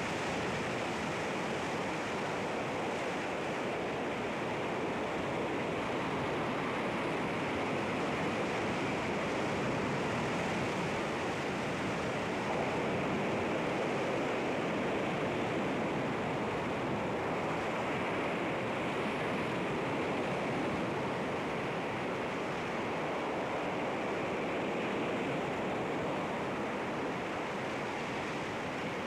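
Sea waves breaking and washing against rocks, a steady rushing wash that swells and eases slowly.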